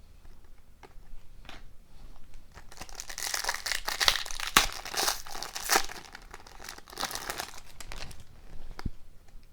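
Foil hockey-card pack wrapper being torn open and crinkled, with scattered crackles that build to a dense, loud stretch of crinkling from about three to eight seconds in.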